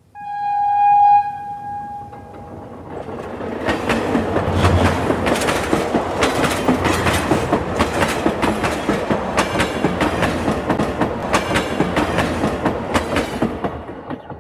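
A train horn sounds a single note for about a second and dies away. Then a train rolls past with a steady clickety-clack of wheels over rail joints, building up and fading out near the end.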